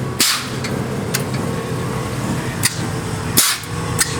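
Airbag suspension on a small Toyota truck letting air out in about five short hisses, the loudest about three and a half seconds in, over the truck's steady idling engine.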